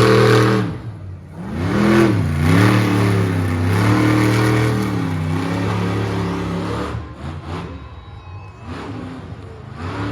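Monster truck engine revving hard, its pitch sweeping up and down in repeated surges. It stays loud for about the first five seconds, then drops to quieter, broken revs for the rest.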